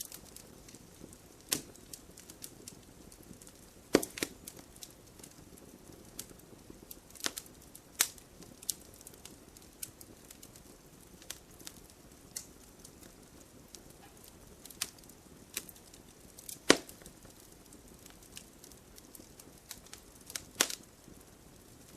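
Wood fire burning in a fireplace: irregular crackles and sharp pops from the logs over a faint low hiss. The loudest pops come about 4 seconds in, around 17 seconds and near the end.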